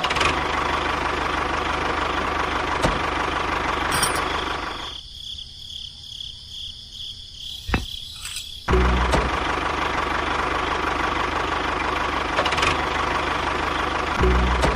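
A miniature model tractor's engine running steadily. It drops away for about three and a half seconds, then comes back loud and heavy.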